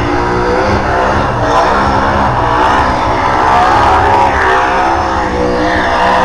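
Burnout car's engine revving hard at high rpm, its pitch wavering up and down as it holds a tyre-smoking burnout.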